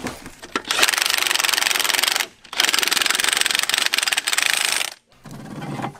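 DeWalt cordless impact wrench hammering on a car wheel's lug nuts, a rapid rattling run of about a second and a half, a brief pause, then a second, longer run of about two seconds.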